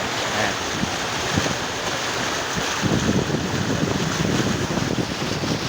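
Steady rush of heavy rain and floodwater, with wind noise on the microphone and a stretch of louder, uneven surging in the middle.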